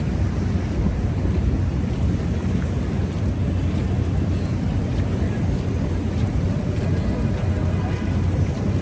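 Steady street noise of a busy city: a low rumble of traffic with a hiss over it.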